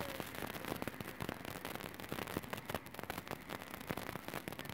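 Irregular crackling and popping over a steady hiss of rain: a rain-soaked microphone malfunctioning.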